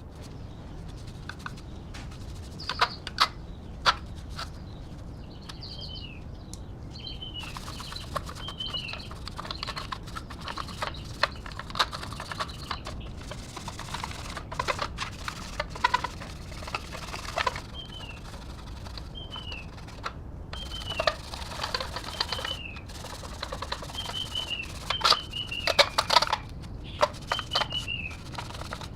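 Irregular clicking and tapping, with the loudest knocks about three seconds in and again near the end. Short chirps falling in pitch repeat every second or two from about five seconds in.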